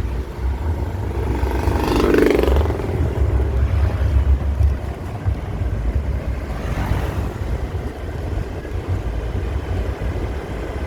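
Wind rumbling on the microphone over traffic engine noise, while on the move. A vehicle passes close about two seconds in, and another more faintly around seven seconds.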